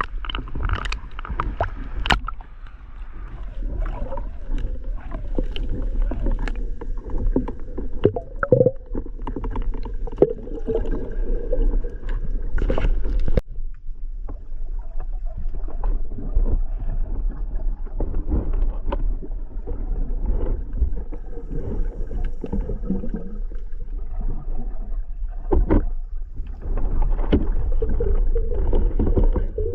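Muffled, churning water noise with gurgling and scattered clicks and knocks, changing abruptly about 13 seconds in.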